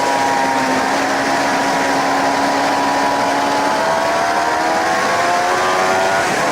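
Suzuki GSX-R 750 K7's inline-four engine running hard at speed under heavy wind rush; the engine note dips a little, then climbs steadily as the bike accelerates.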